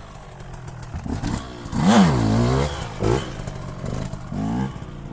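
KTM SX 125 two-stroke single-cylinder motocross engine revving up and down under throttle, with its loudest burst about two seconds in.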